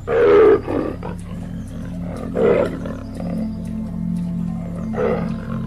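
An animal's rough, growling roar, heard three times over background music with steady held notes: a long first call at the start, a shorter one about two and a half seconds in, and another near the end.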